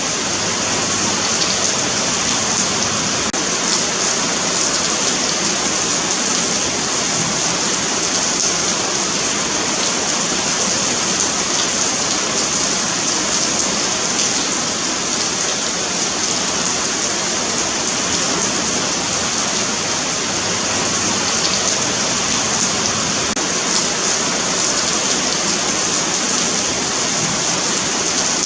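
Steady rain falling on a sidewalk, an even, continuous hiss.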